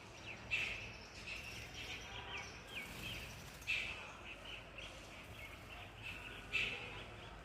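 Large ring-necked parakeet calling: three loud harsh screeches about three seconds apart, with softer chirps in between.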